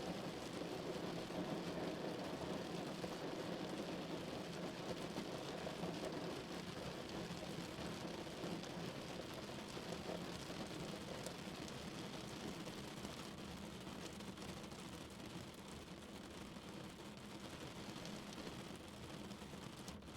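Steady rain falling on a car's roof and windows, heard from inside the vehicle, easing slightly about halfway through.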